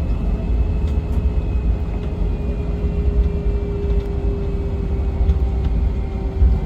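Airliner cabin noise: a steady low rumble of the aircraft on the ground, with engine tones running steadily and drifting slightly lower in pitch.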